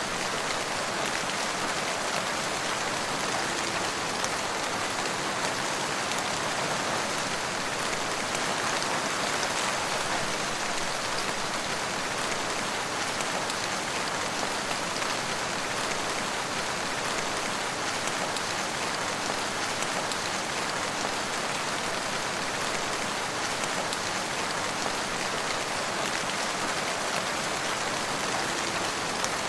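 Steady rain falling, an even, unbroken hiss of many drops with no breaks or changes.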